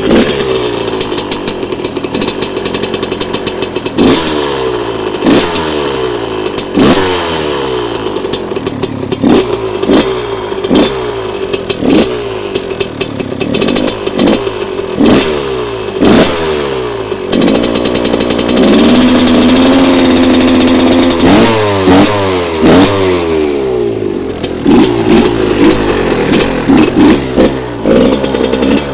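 Yamaha YZ125 single-cylinder two-stroke dirt bike engine running and revved again and again, each throttle blip falling back in pitch. It is held at a steady higher rev for a few seconds around the middle, then blipped quickly near the end. The bike is running again after water was drained from its fuel.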